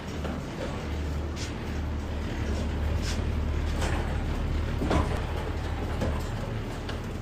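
Low steady hum of a box truck during pallet unloading. Several short knocks and clatters, the loudest about five seconds in, come from pallets being handled and wheeled off the lift gate.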